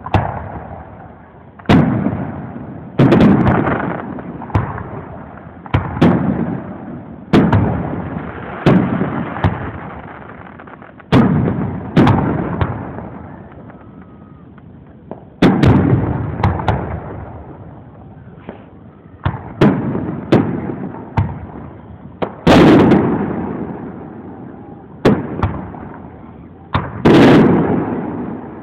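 Aerial fireworks shells bursting one after another, each sharp bang followed by a long fading rumble and echo, with a few quicker crackling pops among them.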